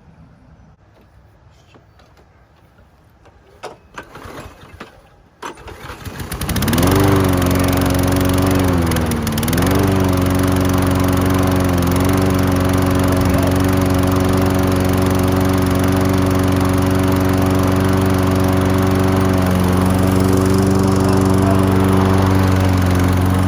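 Toro walk-behind lawn mower engine: a few short knocks, then the engine catches about six seconds in and revs up. It hesitates briefly a few seconds later, then runs steadily.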